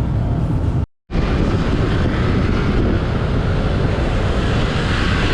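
Wind buffeting the microphone over the rumble of a motorcycle on the move, a steady loud noise that breaks off for a moment about a second in and then resumes.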